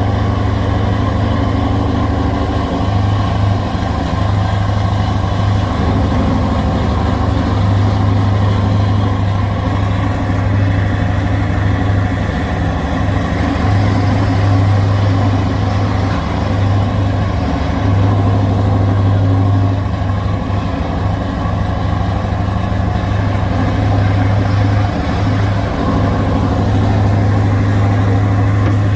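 Scania R560 V8 diesel truck engine, remapped to 690 hp, running steadily with a deep, loud drone.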